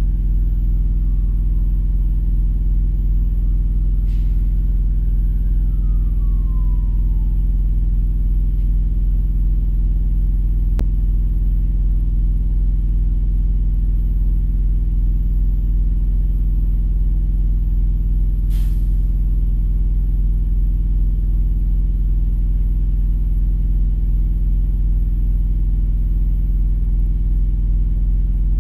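Steady, even rumble of a vehicle engine idling, heard through a windshield from inside the parked vehicle. A faint rising and falling tone drifts in the first few seconds, and a short hiss comes about two-thirds of the way through.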